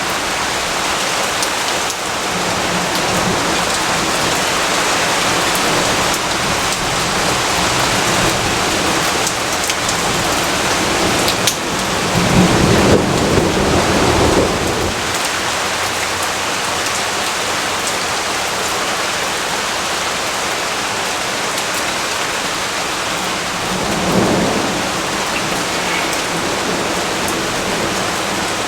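Steady rainfall, with a roll of thunder swelling up about halfway through and a shorter, fainter rumble near the end.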